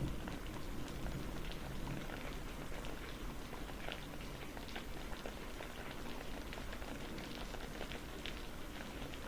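Steady rain falling, an even hiss dotted with the ticks of individual raindrops striking a surface.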